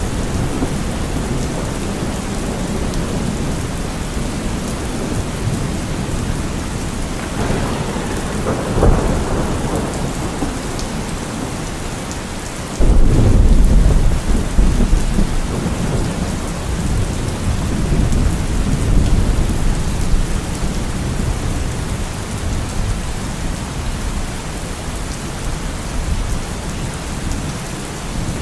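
Steady rain falling in a thunderstorm, with thunder rumbling. About halfway through a sudden loud clap of thunder breaks in and rolls away over several seconds.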